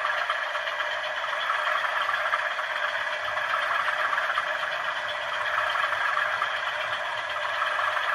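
DCC sound decoder in a model diesel locomotive playing a steady running diesel engine sound through its small onboard speaker, with little bass.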